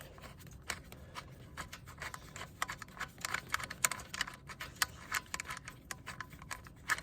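Faint, irregular clicks, taps and light scrapes of hands working on a lawn mower's parts during disassembly.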